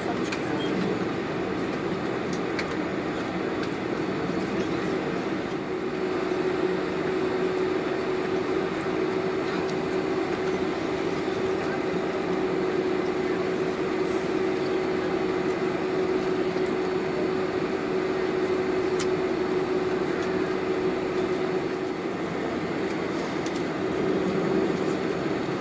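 Steady cabin noise inside a Boeing 747-400 taxiing after landing, with a steady droning tone that comes in about six seconds in and fades out near the end.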